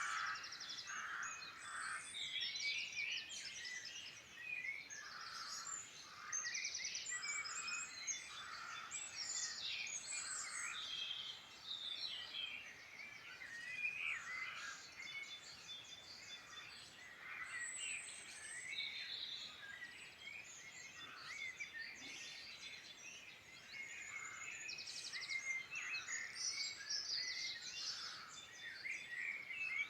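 Chorus of several wild songbirds singing at once: overlapping trills, chirps and warbled phrases, one after another without a break, over a faint steady outdoor hiss.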